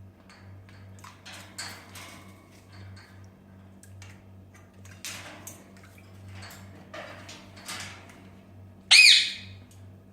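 Grey parrot bathing: scattered brief soft splashing and fluttering sounds, then about nine seconds in one loud, short squawk that rises and falls in pitch, over a low steady hum.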